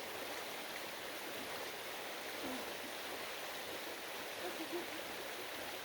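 Creek water rushing steadily over rock, a constant even wash, with a couple of faint short vocal sounds from the swimmer partway through.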